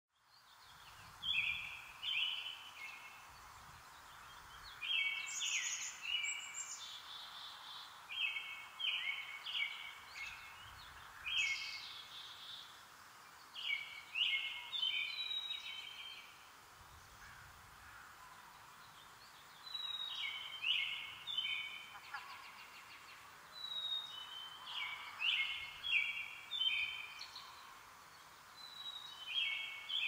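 A songbird singing short phrases of several quick notes, one phrase every few seconds, over a faint steady hiss.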